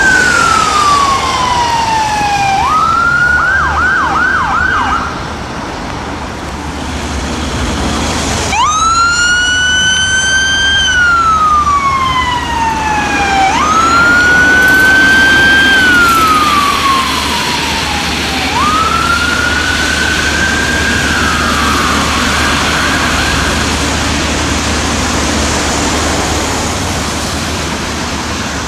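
Electronic ambulance siren on a Mercedes Sprinter, running in wail with slow rising and falling sweeps, and switching briefly to a fast yelp twice. It grows suddenly louder about 8 seconds in and stops about two-thirds of the way through, leaving road traffic noise.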